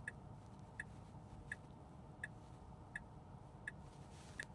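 A Tesla Model 3's turn-signal indicator ticking steadily, seven clicks about 0.7 s apart, as the car waits to make a turn. A faint low hum lies underneath.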